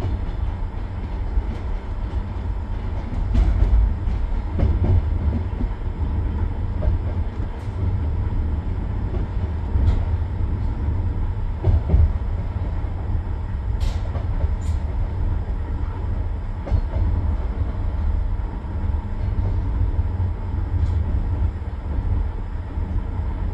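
Moving train heard from inside the carriage: a steady low rumble from the running gear, with scattered sharp clicks and knocks from the wheels on the track.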